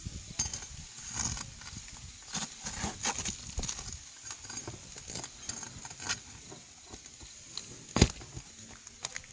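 Hand work on asphalt roof shingles: irregular scraping, rustling and small clicks as a shingle is worked loose, with one sharp knock near the end.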